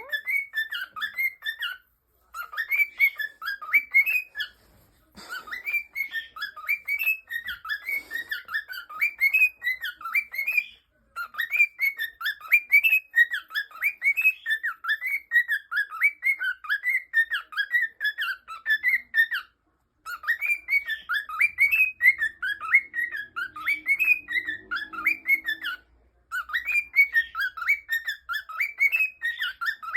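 Cockatiel whistling and warbling in long runs of quick rising and falling notes, with brief pauses every few seconds.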